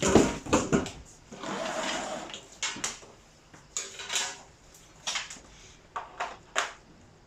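Handling noises: a cluster of sharp knocks and clicks at the start, a rustle lasting about a second, then scattered clicks and scrapes. These come from the vacuum cleaner's parts and accessories being picked up and moved about.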